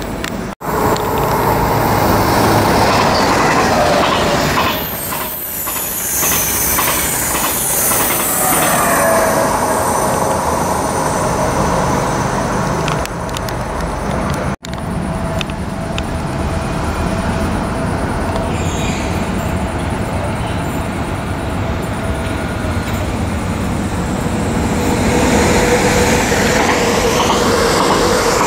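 Electric passenger trains running past on the mainline tracks: the wheels clack over rail joints and squeal high, with a steady whine from the passing train. The sound breaks off abruptly twice where the recording is cut.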